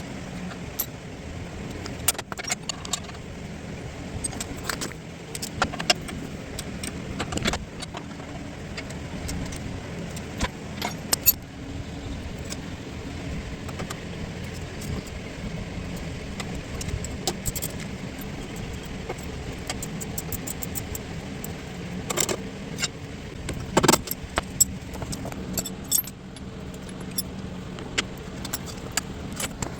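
Hand tools working on a pickup's front suspension: scattered metallic clicks, clinks and knocks of wrenches and sockets as the bolts are tightened, over a steady low hum.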